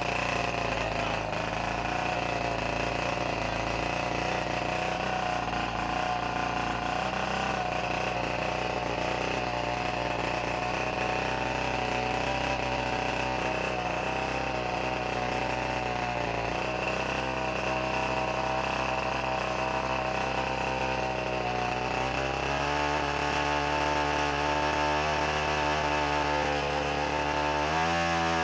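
Gasoline engine of a large-scale RC model biplane, not run for ten years or more, running steadily with its propeller turning. It is throttled up about three-quarters of the way through and rises once more near the end.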